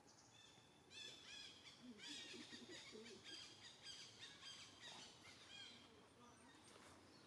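Faint birdsong: a quick run of many short, high chirps that starts about a second in and dies away after about five seconds.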